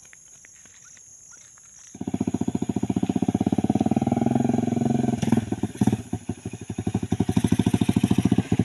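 A small motorcycle engine comes in suddenly about two seconds in, running with a rapid, even putter as the bike rides toward the camera. It weakens and goes uneven for a couple of seconds in the middle, then runs strongly again near the end.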